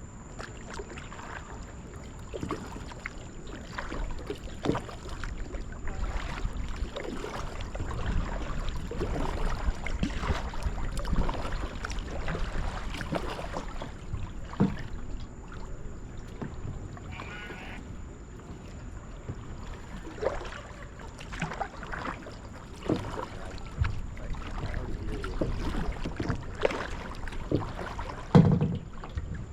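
Kayak paddling: paddle strokes splashing and water sloshing against the hull, with irregular knocks and splashes, and one louder thump near the end.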